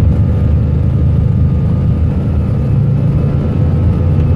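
Steady roar of jet engines and rushing air heard inside an airliner's cockpit, heaviest in the low range, with a faint steady whine above it.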